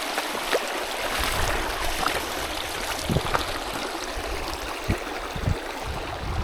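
A small mountain stream running over rocks, a steady rush and gurgle of water, with a few short low thumps about three seconds in and again near the end.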